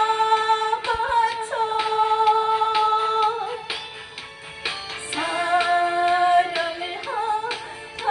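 A woman singing a Korean trot song over a backing track, holding two long notes with a short lull between them.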